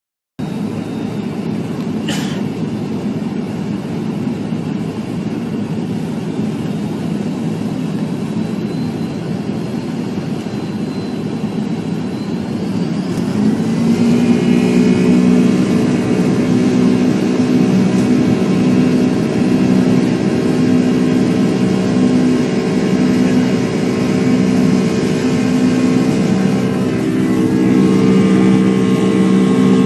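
Engines running hard in a drag race, first as a rough rumble. About halfway in a louder, steady drone with several held pitches takes over.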